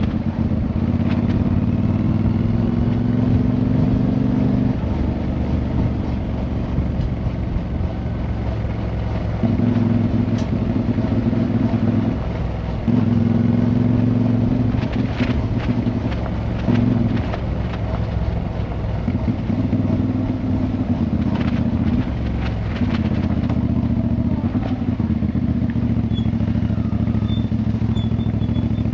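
Motorcycle engine running steadily while riding, its engine note dropping and rising in steps several times as the revs change.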